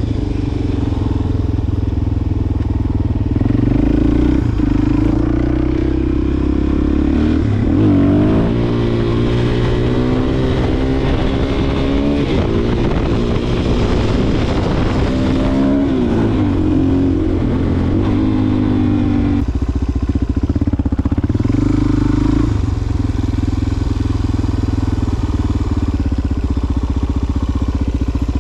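Suzuki DR-Z400SM single-cylinder four-stroke engine running under way, its note rising and falling several times as it is ridden.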